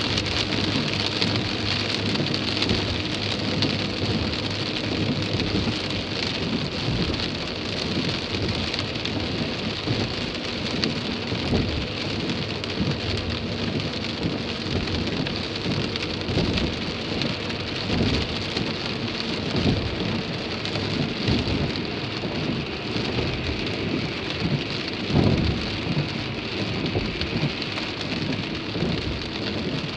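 Heavy rain drumming steadily on a car's roof and windscreen, heard from inside the moving car, with a few louder low thuds, the loudest near the end.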